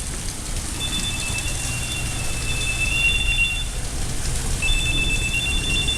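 Heavy rain pouring down in a thunderstorm. A steady high electronic tone sounds twice through it, once for about three seconds and then again near the end.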